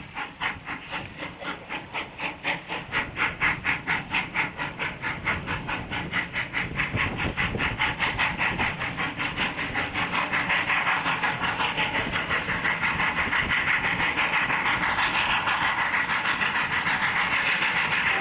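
Steam locomotive working hard, its exhaust chuffs quickening steadily from a few beats a second to a fast, even beat as the train picks up speed.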